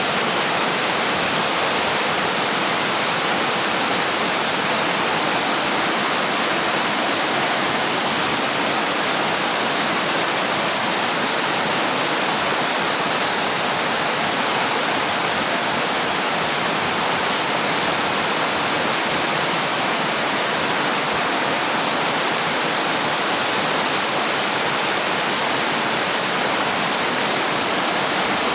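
Heavy rain pouring steadily in a storm: a dense, even hiss that holds without a break.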